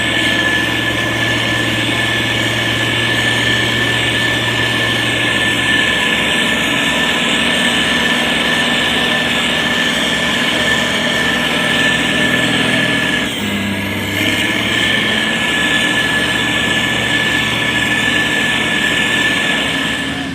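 Heavy construction machine's diesel engine running steadily with a high steady whine over it. About 13 seconds in the sound dips briefly and the engine note shifts, then carries on.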